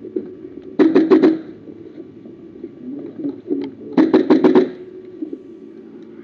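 Two short bursts of airsoft gun fire, each four or five rapid shots, the second about three seconds after the first.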